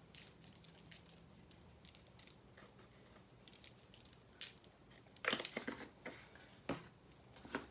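Faint rustling and light clicks of spice containers being handled and shaken over seasoned chicken breasts, with a cluster of sharper clicks about five to six seconds in.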